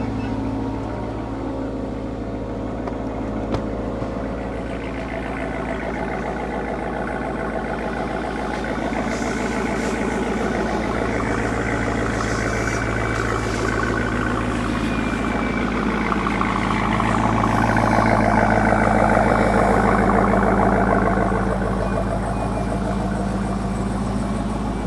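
Car engine running steadily, swelling louder about two-thirds of the way through and then easing back.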